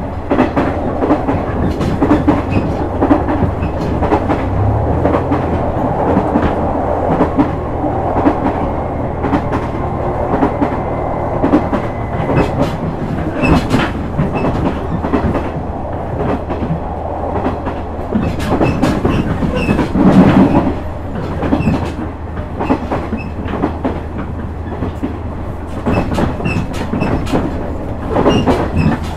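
KiHa 126 series diesel railcar running at speed, heard from inside the car: a steady diesel engine hum under the wheels clicking over rail joints, with a heavier clatter about two-thirds of the way through.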